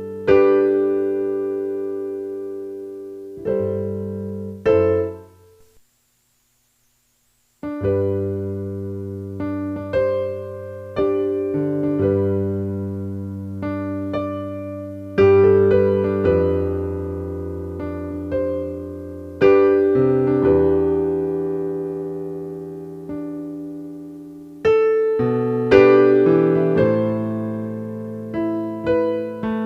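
Background piano music: slow chords struck and left to fade, with a pause of about two seconds early on.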